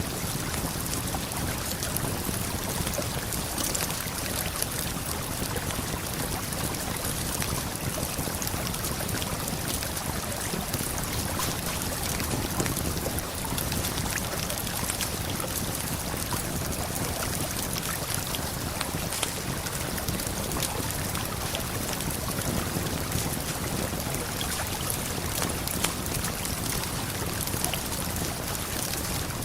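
Steady rushing of a waterfall and flowing river, with small scattered crackles and pops from a campfire over it.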